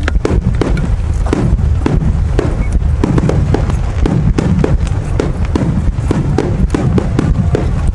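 Aerial fireworks shells bursting in rapid succession: a dense run of sharp bangs, several a second, over a continuous low rumble.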